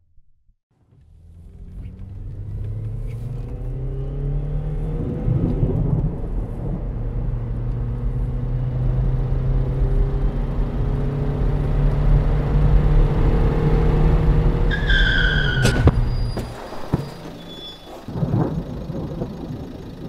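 A car engine running, fading in and growing steadily louder. About three quarters of the way through comes a brief high squeal and a sharp knock, after which the engine drops to a lower, quieter running.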